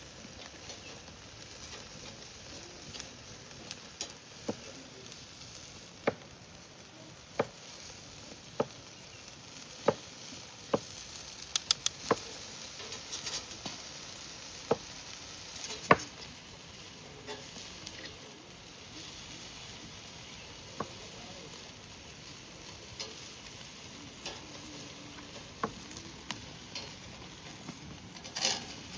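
Food sizzling and frying in a pot over a fire: a steady hiss, broken by irregular sharp clicks and taps, with a louder cluster of them near the end.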